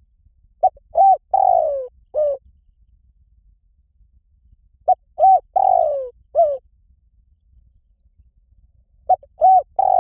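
Spotted dove cooing: three phrases about four seconds apart, each of four notes, with a short note, a rising-and-falling coo, a longer coo sliding down, and a closing coo. The third phrase starts just before the end. This is the cooing of a dove used as a lure to draw another spotted dove into cooing back.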